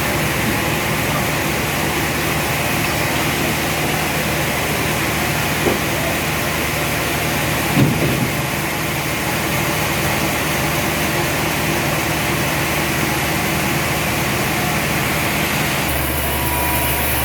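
Heavy machinery running steadily with a low hum, with two short knocks about six and eight seconds in; the low tone changes shortly before the end.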